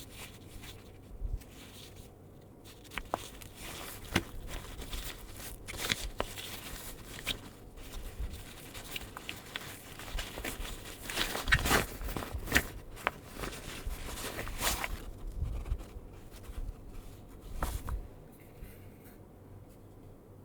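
Hands handling a lens carry pouch and its packaging: scattered rustles, scrapes and light clicks, busiest around the middle and quieter near the end.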